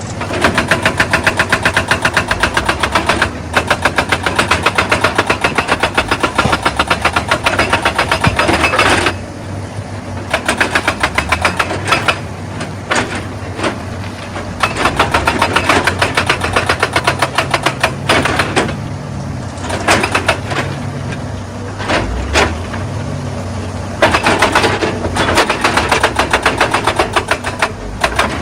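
Excavator's hydraulic rock breaker hammering stone in spells of rapid, evenly spaced blows lasting several seconds, with short pauses between, over the machine's diesel engine running steadily.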